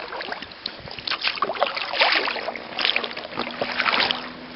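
Kayak paddle strokes: blades dipping and splashing in the water, with water dripping off them at irregular intervals. A faint low steady hum comes in about three seconds in.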